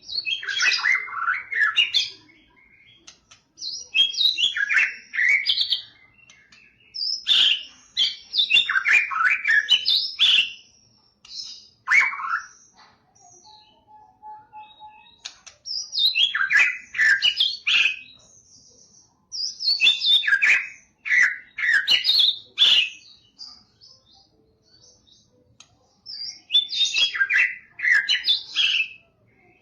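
White-rumped shama (Medan murai batu) singing in loud bursts of rich, fast, varied whistled phrases, each lasting a couple of seconds, with short pauses between them.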